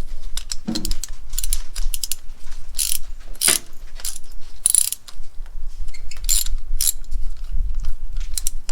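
Socket ratchet clicking in short irregular runs, unscrewing spark plugs from the engine.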